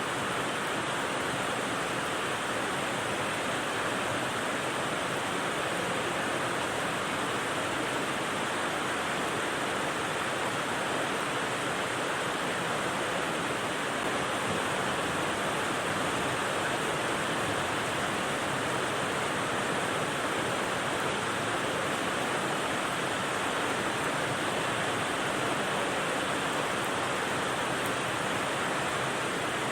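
Steady rain white noise: an even, unbroken hiss with no separate drops, thunder or changes in level.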